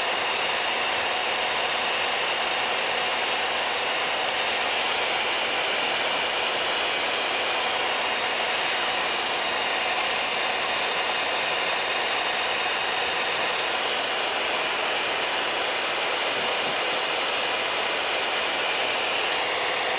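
Steady cabin drone of a Mooney M20K's turbocharged six-cylinder piston engine and propeller in flight: an even hiss with a few faint steady tones, unchanging throughout.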